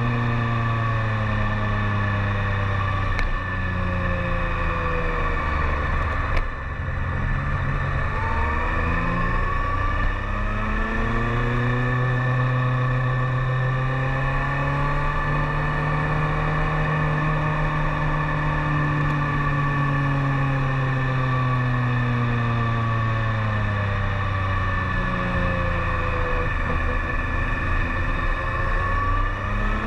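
BMW K1300S inline-four engine running under way, its pitch rising and falling with the throttle. The note dips briefly about six seconds in, climbs and holds high through the middle, sinks slowly, then climbs again near the end.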